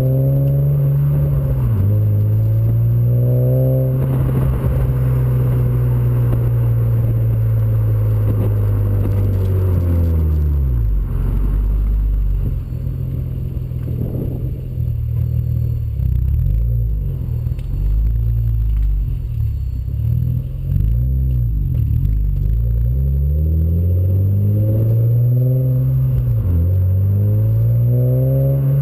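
Exhaust note of a Honda Accord V6 (RV6) with an aftermarket intake, J-pipe and TD cat-back exhaust, driving. It pulls up through the revs with a shift early on, cruises steadily, eases off and varies in the middle, then climbs in revs again near the end.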